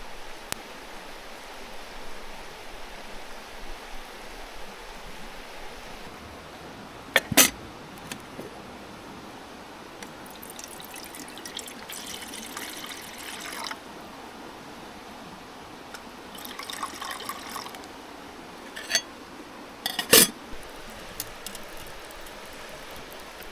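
Liquid being poured into a vessel in two spells of a few seconds, over a steady babbling stream, with two sharp knocks, the louder one near the end.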